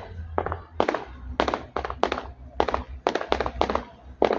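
Fireworks display going off in rapid succession: about a dozen sharp bangs in four seconds, each dying away quickly, over a steady low rumble.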